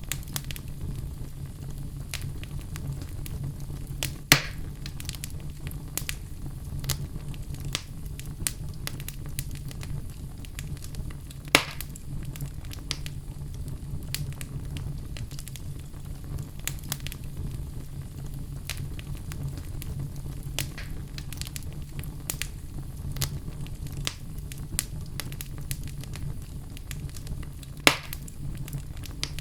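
Fireplace fire crackling: a steady low rumble under frequent small snaps, with three louder pops spread through.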